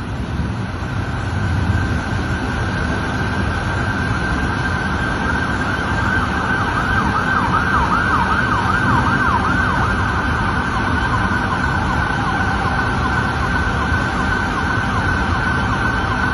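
An emergency vehicle siren yelping in fast, repeated rising-and-falling sweeps, clearest in the middle, over a steady rush of background noise.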